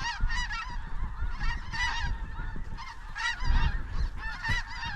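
A flock of snow geese calling, many short, high honks overlapping without a break, over low wind rumble on the microphone.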